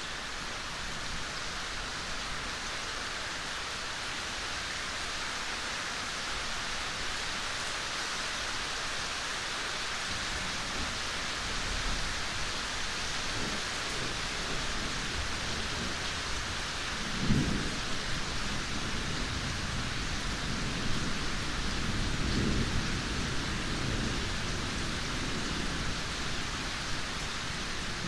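Steady rain falling in a forest, an even hiss throughout. A low rumble comes in about a third of the way through and swells twice in the second half.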